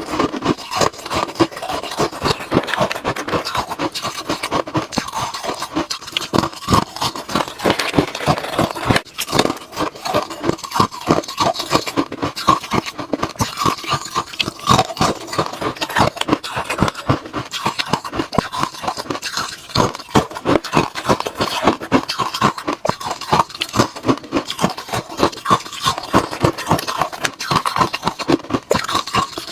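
Ice cubes being bitten and crunched close to the microphone: a dense, unbroken run of sharp cracking crunches.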